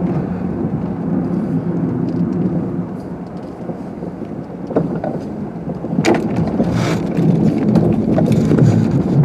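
Car driving on a snowy road: a steady engine and road hum. Two short noises about six and seven seconds in.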